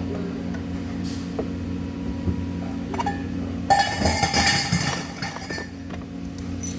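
Steady low electrical hum of workshop machinery, with a clatter of metal clinking and ringing for about two seconds past the middle.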